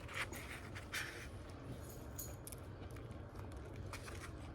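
A few short crinkly rustles and light clicks in the first second or so as an al pastor burrito is handled and bitten into, then only a low steady background hum.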